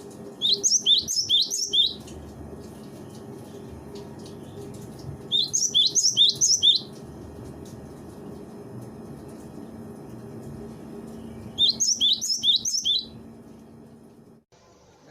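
Cinereous tit (gelatik batu) singing: three short bursts of quick, repeated high notes a few seconds apart, over a low steady hum.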